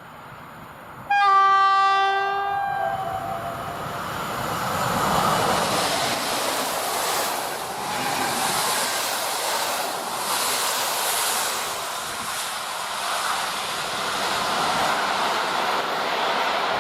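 PKP EP07 electric locomotive sounding its horn once, a single held note of about two seconds, then the locomotive and its passenger coaches passing with a steady rush of wheel and rail noise.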